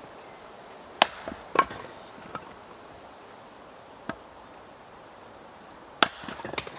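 Axe chopping firewood: a handful of sharp, irregular wooden strikes, the loudest about a second in and again near the end.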